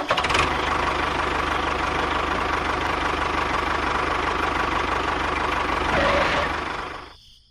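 A small motor running steadily with a fast rattle and a faint whine, fading away over the last second or so.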